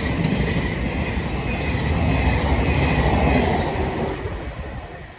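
A Class 700 electric multiple unit passing through the station: a steady rumble of wheels on rail that fades away over the last second or so as it leaves.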